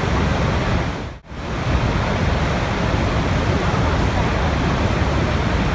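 Steady rushing water noise. A little over a second in it fades out almost to silence and comes straight back, as at the join of a looped recording.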